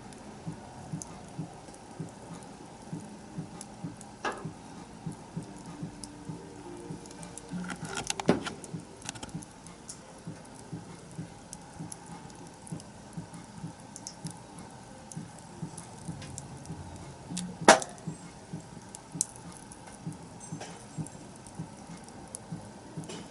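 Wood fire crackling, a steady run of small pops and ticks, with two loud sharp snaps, the first about a third of the way in and the second about three-quarters of the way through.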